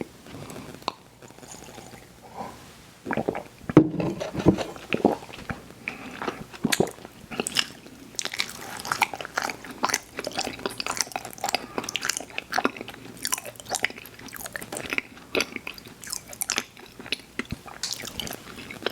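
Close-miked biting and chewing of sweets: a steady run of small clicks and crackles from the mouth, with a louder cluster of bites about four seconds in.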